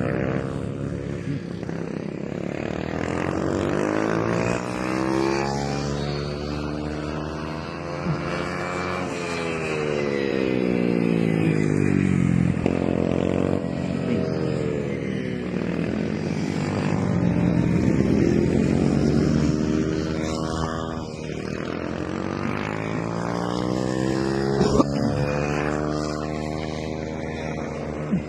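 Several 110cc mini motorcycles racing on a track, their small engines buzzing with the pitch repeatedly climbing and falling as the bikes accelerate, pass and pull away in waves.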